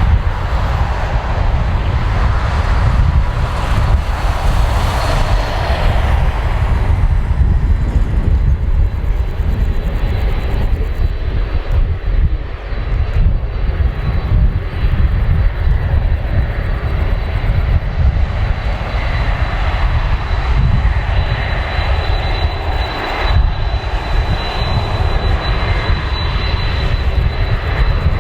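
Boeing 747-400 freighter's four jet engines at takeoff power, a loud steady roar with deep rumble, a high whine coming through in the second half.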